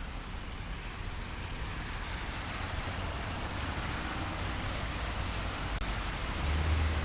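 Steady hiss of rain on a city street over the low rumble of traffic on wet roads, growing a little louder toward the end.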